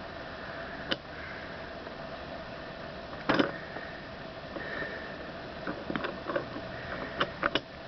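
A wooden railway toy engine being handled: a few light clicks and knocks, one louder knock about three seconds in and a quick run of small clicks near the end, over a steady room hiss with a faint hum.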